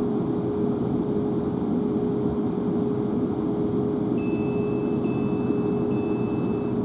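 Interior running noise of a Class 444 Siemens Desiro electric multiple unit: a steady rumble with a constant hum-like whine. Faint high-pitched tones sound during the last few seconds, broken twice.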